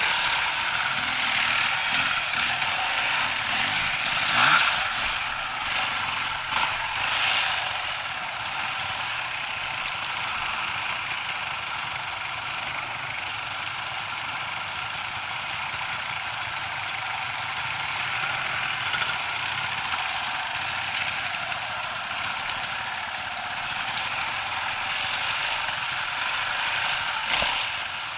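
Off-road motorcycle engine running steadily, with a few louder surges about four to seven seconds in and a brief sharp knock near the end.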